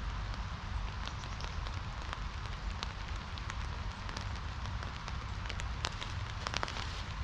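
Steady rainfall with many separate raindrops ticking sharply, over a low steady rush.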